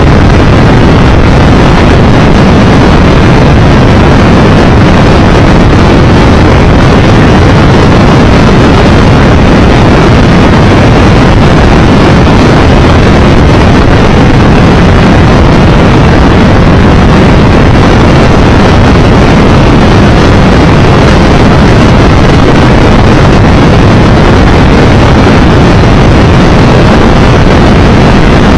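Steady wind noise buffeting the microphone on a motorcycle at road speed, heavy in the low end, mixed with the low hum of the Triumph Tiger Explorer 1200's engine. Even and unbroken, with no gear changes or other events standing out.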